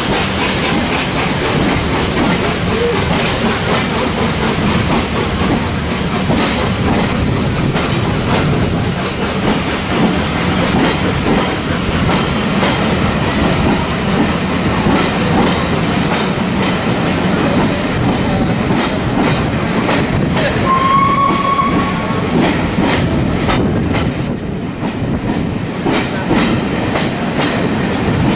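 A train running past, its wheels clacking over the rail joints in a steady rattle. About three-quarters of the way through comes a brief high, whistle-like tone lasting about a second.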